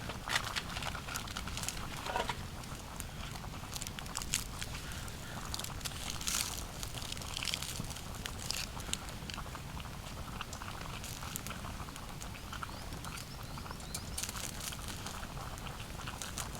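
Irregular crunching and rustling, with a steady low rumble underneath.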